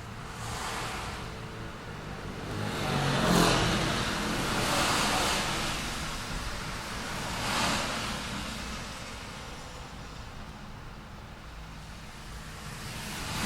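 Street traffic: several cars pass one after another, their tyre hiss swelling and fading over a steady low engine rumble. The loudest pass comes about three and a half seconds in.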